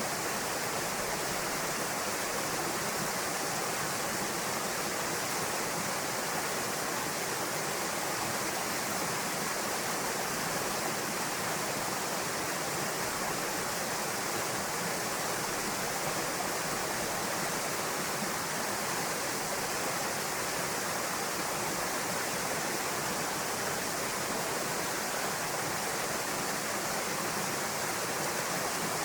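Small waterfall pouring into a rocky pool, a steady, even rush of falling water.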